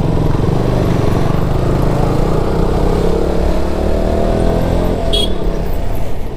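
Motorcycle engine running on the move, its pitch rising between about two and five seconds in, then dropping. A short high tone sounds about five seconds in.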